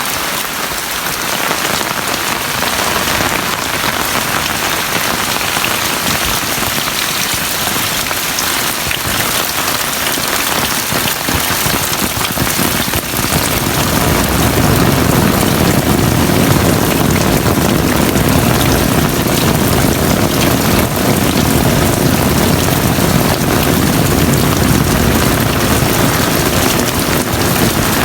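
Heavy rain falling, a dense steady hiss of drops. About halfway through a deeper rushing layer joins it and the rain gets louder.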